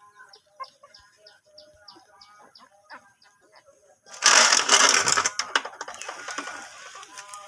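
Faint, short high squeaks of a newborn puppy over a regular faint ticking, about three ticks a second. About four seconds in, a loud rustling noise starts suddenly and dominates for about two seconds.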